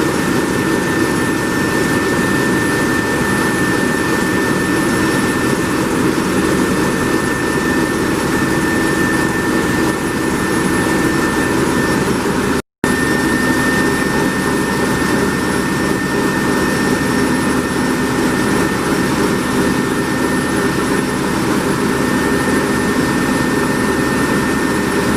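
Large MaK marine diesel engine of a passenger launch running steadily, a loud constant din with a steady high whine over it. The sound drops out completely for a split second about halfway through.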